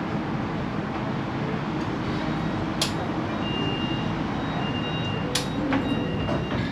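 Siemens Inspiro MRT train running between stations, heard inside the carriage: a steady rolling rumble and hiss from the wheels and running gear. Two sharp clicks come about three and five and a half seconds in, and faint high beeping tones come and go over the second half.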